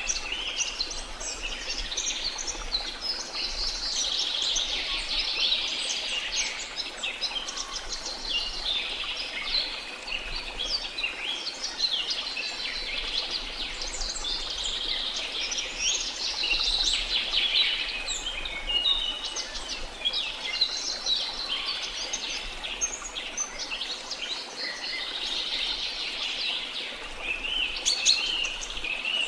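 A dense chorus of many birds chirping and calling at once, overlapping short notes and quick whistled glides throughout, over a faint steady hiss.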